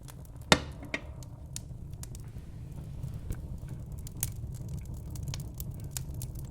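Wood fire in a fireplace crackling: scattered sharp pops over a steady low rumble, with one loud pop about half a second in.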